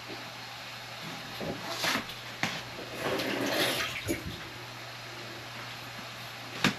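Water running or splashing in two short noisy spells, about one and a half and three seconds in, with a light click between them.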